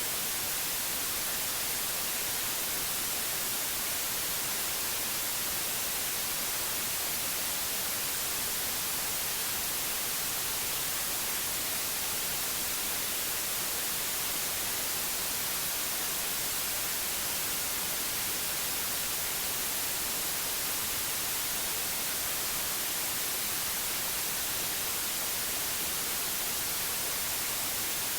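Steady white noise: an even, unbroken hiss, brightest in the treble, with no change in level or pitch.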